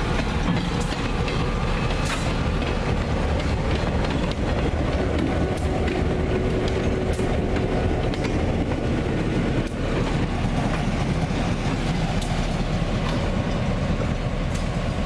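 A diesel locomotive and its cars rolling past on the track: a steady low rumble with scattered sharp clicks of the wheels over the rail joints.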